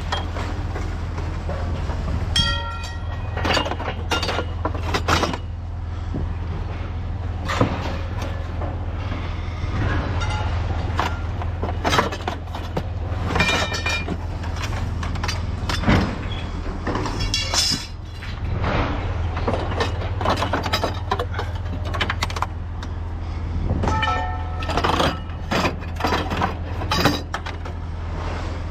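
A heavy engine's steady low drone under a string of sharp metal clanks and several high metallic squeals: scrap metal being handled in a scrapyard.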